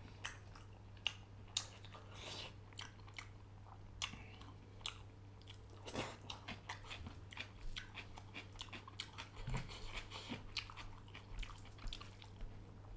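A person chewing a mouthful of fish curry and rice close to the microphone: many small, irregular mouth clicks and smacks. A faint steady low hum runs underneath.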